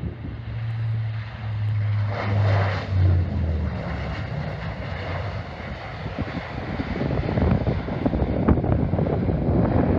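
Passing jet airliner, its engine hum dropping in pitch over the first few seconds, with wind buffeting the microphone and growing louder near the end.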